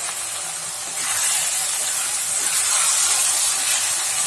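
Broiler chicken pieces sizzling in hot oil with fried onions in a pan, being browned before any water is added; a steady sizzle that grows louder about a second in.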